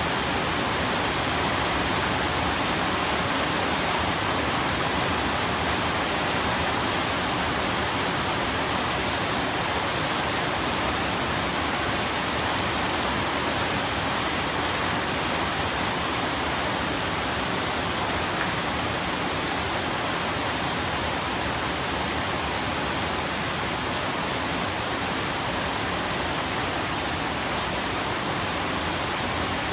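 Steady, even rain falling, a continuous dense hiss with no single drops or thunder standing out.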